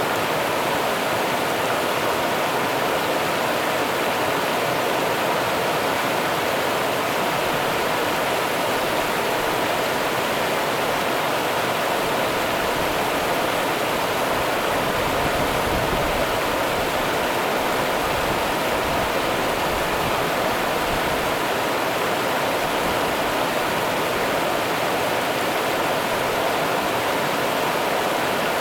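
Rio Grande river water running over rocks: a steady, unbroken rush of flowing water.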